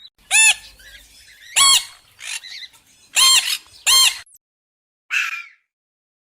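An animal's short, high, squeaky calls: four calls that each rise and fall in pitch, followed by two fainter, raspier calls.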